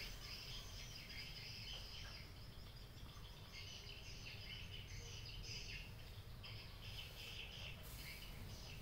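Faint background chirping of small birds, in short high-pitched bursts that come and go, over a low steady rumble.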